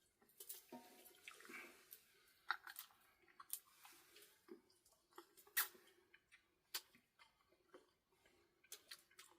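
Faint, scattered sharp clicks and soft rustling of grilled dried pollack being torn apart by hand and chewed.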